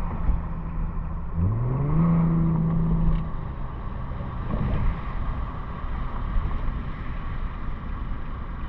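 Infiniti G37's 3.7-litre VQ37VHR V6 running through a muffler- and resonator-deleted exhaust while driving: a steady exhaust drone whose revs climb sharply about a second and a half in, hold for just over a second, then ease back.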